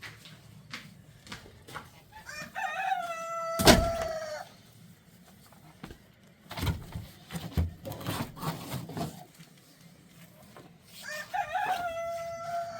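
A rooster crows twice: two long calls, each held on a steady note and falling away at the end, the second near the end. A sharp knock lands during the first crow, and scattered clicks and knocks come between the two.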